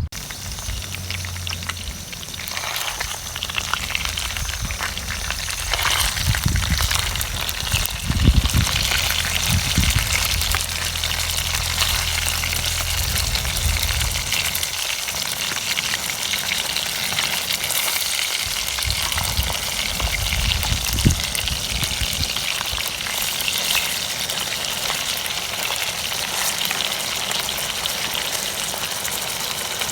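Minced-meat cutlets frying in hot oil: a steady crackling sizzle. A low hum runs under it through the first half.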